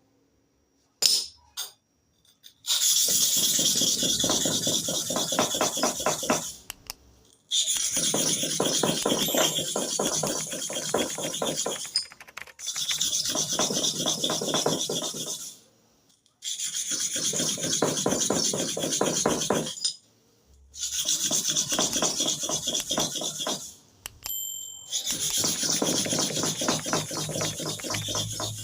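Hair clipper blade rubbed rapidly back and forth on a kerosene-oiled sharpening stone, a fast scraping rasp. It comes in six bouts of three to four seconds each, with short pauses between them.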